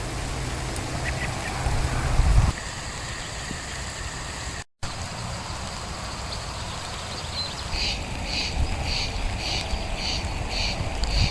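Low rumble from wind on the microphone, then a bird calling in a quick, even series of about eight short high notes in the second half.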